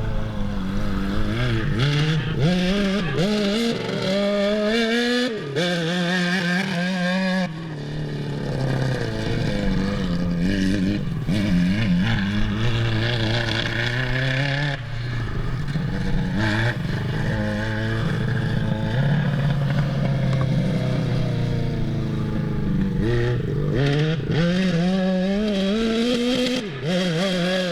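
Suzuki GSX600 motorcycle engine in a Honda Odyssey buggy, revving up and down over and over under throttle, its pitch rising and falling as it is driven hard.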